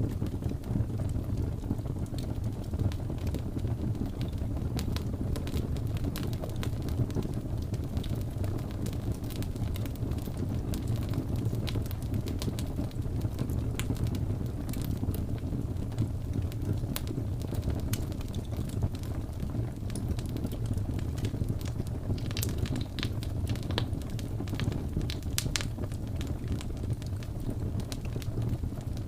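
Wood fire crackling in a fireplace, a scatter of sharp pops and snaps over a steady low rumble of wind.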